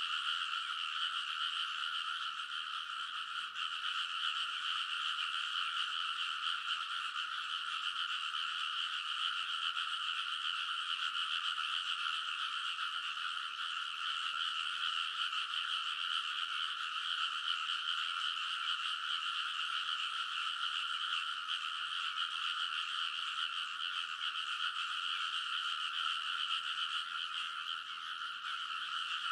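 Many rice-paddy frogs calling together in a dense, unbroken chorus, the calls overlapping into a steady wall of sound that never pauses.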